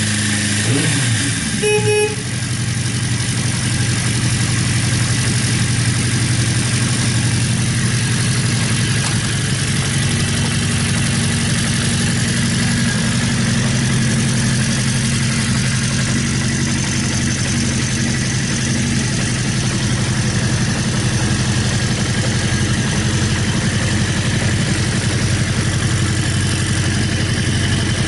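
Honda CB400F's 408cc air-cooled inline-four, with an aftermarket muffler, coming down from a rev in the first two seconds and then idling steadily. A short horn beep sounds at about two seconds.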